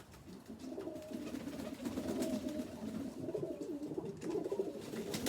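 Domestic pigeons cooing continuously, a low wavering warble from several birds, with a few faint clicks.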